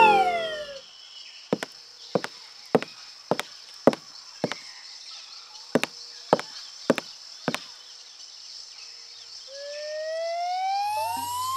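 Cartoon sound effects: a whistle gliding down in pitch, then ten short hollow knocks, about two a second with a brief pause midway, as footstep effects, and near the end a whistle gliding up in pitch.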